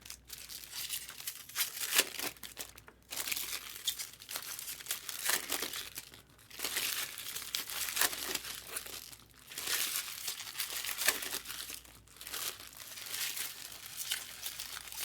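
Plastic trading-card pack wrappers crinkling and tearing as packs are ripped open, in several spells of crackling with a few brief pauses.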